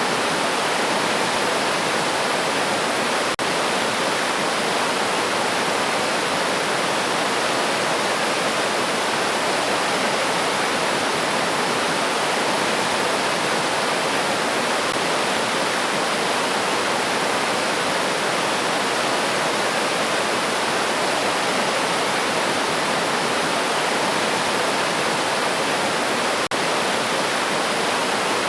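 A river or stream flowing, a steady, even rush of water. Two faint clicks break it, about three seconds in and again near the end.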